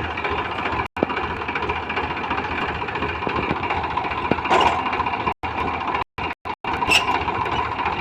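Tractor diesel engine running steadily, cut by a few brief silent gaps.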